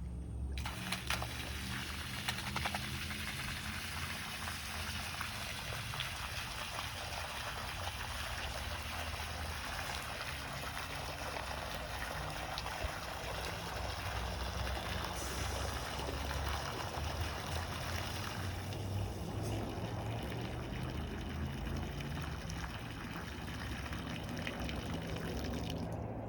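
Water gushing from a truck-mounted tree watering boom, starting about a second in, with the truck's engine running steadily underneath.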